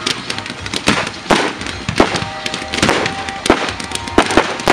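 A fireworks display going off: a dense, irregular string of sharp bangs and crackling from bursting shells and rising comets, several reports a second, with the strongest bangs about two seconds in and at the very end.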